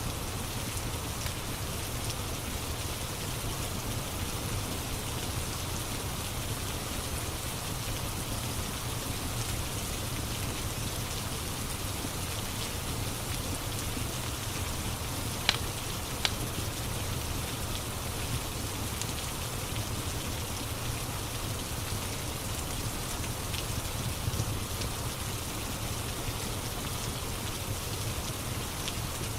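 Steady rain ambience, with a couple of sharp crackles from a wood fire about halfway through.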